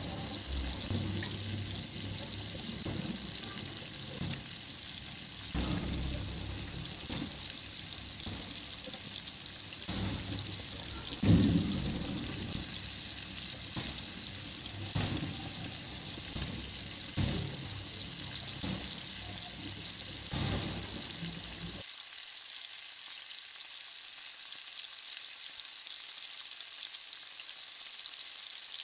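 Flour-coated chicken strips deep-frying in hot oil: a steady high sizzle, with a short knock every second or two as more strips are laid into the pan, the loudest near the middle. The knocks stop about two-thirds of the way through, leaving only the sizzle.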